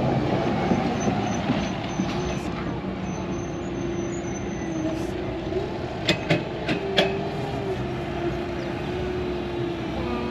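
Steady road and engine noise of a vehicle driving, with a low steady hum; a few sharp clicks come about six to seven seconds in.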